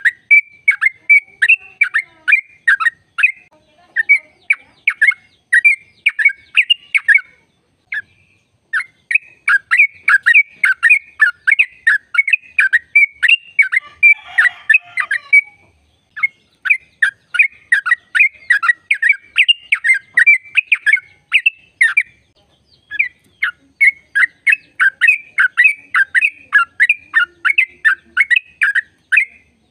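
Yellow-vented bulbul (trucukan) singing a long, fast 'ropel' string of short, sharp chirping notes, broken by brief pauses about 8, 16 and 22 seconds in.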